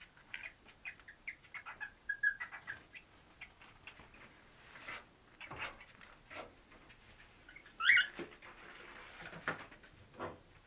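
Cockatiels making a run of short chirps and clicks, then scattered clicks, with one louder harsh call about eight seconds in.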